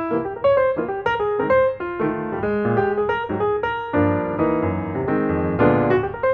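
Background piano music: a run of struck notes with chords sounding under them, played at a steady pace.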